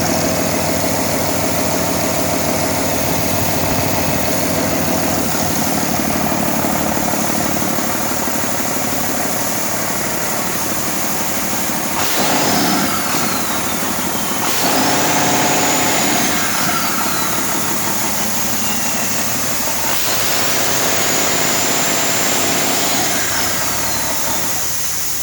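Cummins ISB 5.9L turbo-diesel inline-six on a test run, idling and then revved three times. A high whine rises and falls with each rev as the turbocharger spools up and down.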